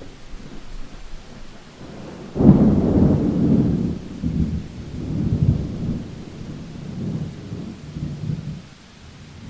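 A thunderclap breaks sharply about two and a half seconds in and rolls on as a deep rumble in several swells, dying away near the end. Steady rain falls underneath.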